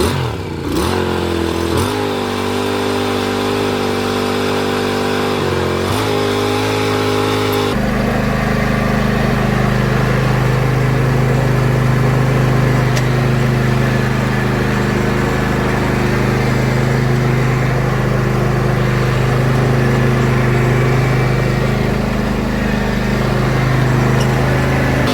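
An engine, just started, runs steadily. Its note shifts a few times in the first several seconds, then about eight seconds in it settles into a lower, heavier steady run.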